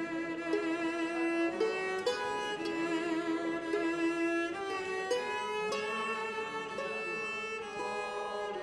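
Bowed string instruments playing a melody in held notes with vibrato, several parts sounding together.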